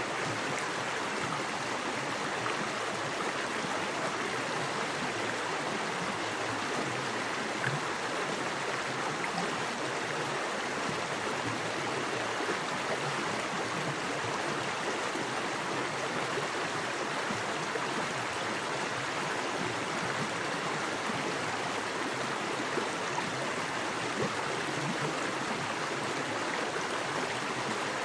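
Small woodland creek rushing fast over rocks: a steady, even wash of water with small splashes and gurgles.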